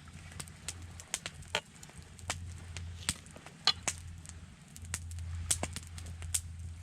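Campfire crackling, with irregular sharp pops over a low steady hum.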